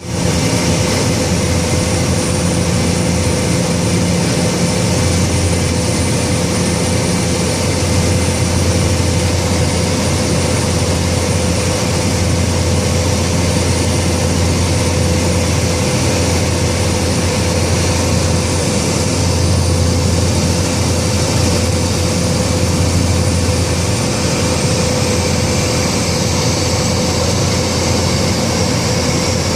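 Cessna Caravan's single turboprop engine and propeller heard from inside the cockpit, a steady loud drone with a high turbine whine. The whine drops slightly in pitch near the end, as power comes back.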